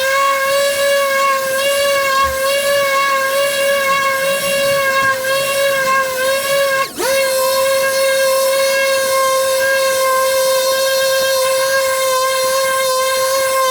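A high-speed power tool motor spins up to a steady high-pitched whine. About halfway through it stops for a moment and revs straight back up to the same pitch.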